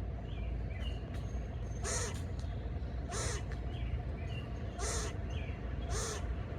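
A crow cawing four times, harsh calls spaced about a second to a second and a half apart, with fainter chirps from smaller birds between them over a steady low rumble.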